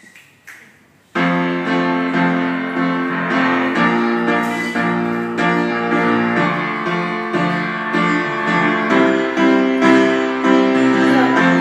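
Piano music starting abruptly about a second in, playing sustained chords: the intro of the accompaniment to a song.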